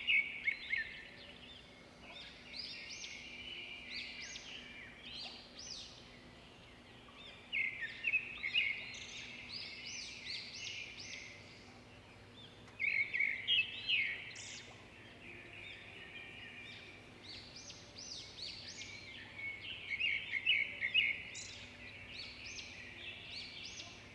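Birds chirping and calling, with bursts of rapid chirps about every six seconds and scattered single calls between them.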